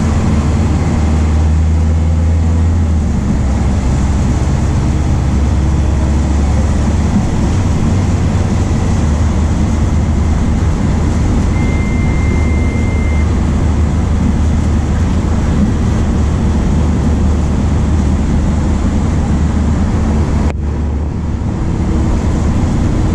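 MAN D0834 four-cylinder diesel engine of a VW 17.230 OD bus running with a steady low drone. A brief high tone sounds near the middle, and about three-quarters of the way through the level dips suddenly for a moment.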